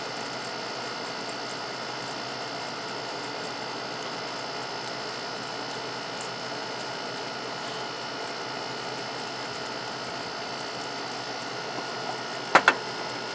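Steady mechanical whirring hum with a few steady tones, unchanging throughout, and two sharp clicks close together near the end.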